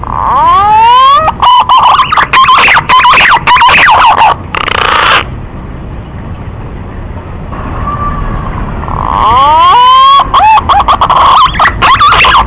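Male green pigeon (punai) song played as a lure call: a phrase of rising whistles that breaks into wavering, warbling whistled notes and lasts about five seconds, then after a pause a second phrase begins about nine seconds in. The playback is very loud and distorted, cutting out briefly many times.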